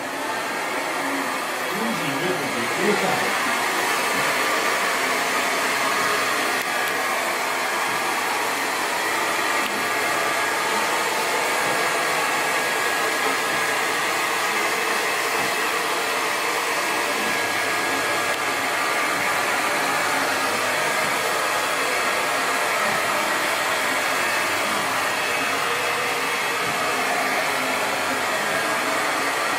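Hand-held hair dryer blowing steadily, coming up to full strength in the first few seconds and then running on evenly.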